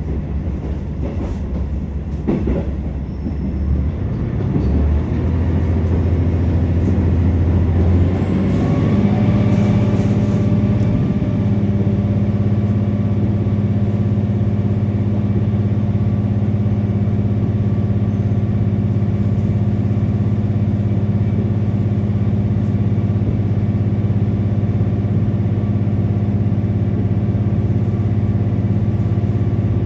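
Diesel engine of a KiHa 47 railcar, heard from inside the carriage, working under power over the rumble of the wheels on the rails, with a single click about two seconds in. Its drone rises in pitch between about eight and eleven seconds in, then holds steady.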